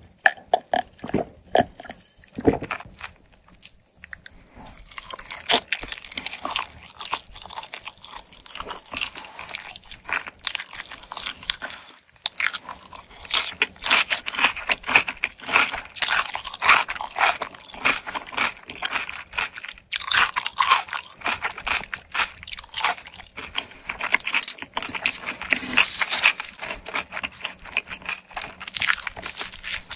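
Close-miked chewing of pizza, the crust crunching in quick, dense crackles. It starts about five seconds in, after a few separate gulps of a drink.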